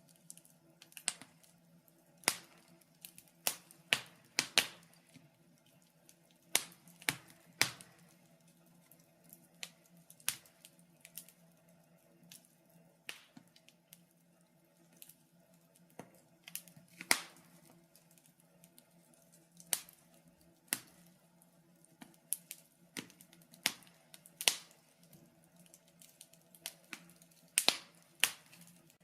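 Wood fire crackling in a fireplace: irregular sharp pops and snaps, now single, now several in quick succession, over a faint steady low hum.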